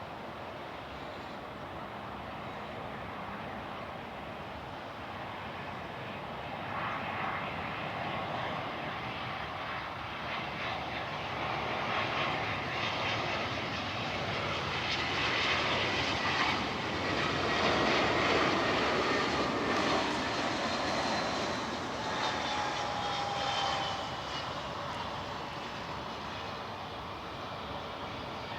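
Airbus A320 jet airliner passing close by on its landing approach: the engine rush builds over several seconds to a peak and then eases off, with thin whining tones falling in pitch as it goes past.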